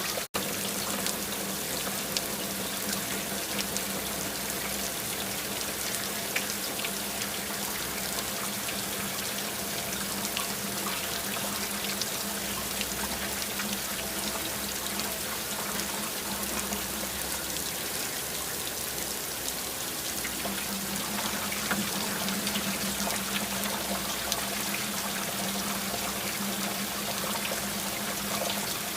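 Steady rain falling, a dense patter of small drops with a steady low tone underneath that fades out briefly near the middle.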